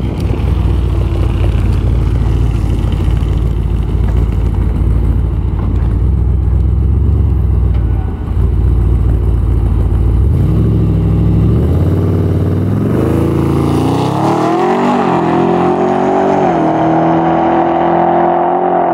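Twin-turbo 426 stroker Hemi V8 of a Dodge Charger SRT8 running with a heavy low rumble, then accelerating away about ten seconds in. Its pitch climbs and dips through several gear changes on an easy shakedown pass, without a hard launch.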